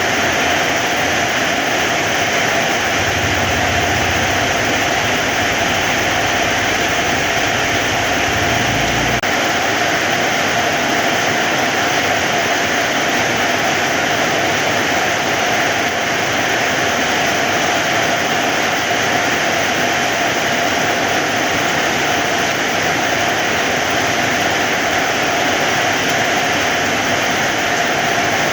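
Heavy rain falling steadily, a dense even hiss, with a low rumble underneath for roughly the first third.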